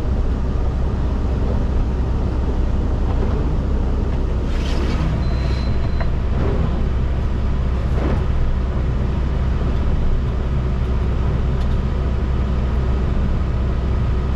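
Excavator with a hydraulic rock breaker at work, heard from inside the operator's cab: a steady, loud low drone with a few sharper knocks about four to eight seconds in.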